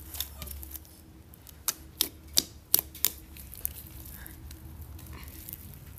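Slime being kneaded and mixed by hand, giving a quick run of sharp clicks and pops from trapped air, about six in two seconds near the middle.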